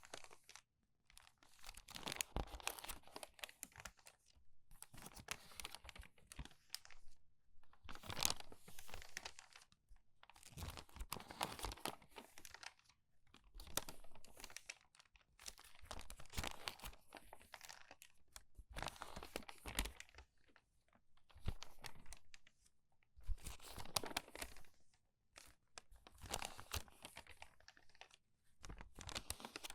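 Crinkled, crumpled paper pages being turned one after another at a quick pace. Each turn is a burst of crackling and rustling, coming about every two to three seconds.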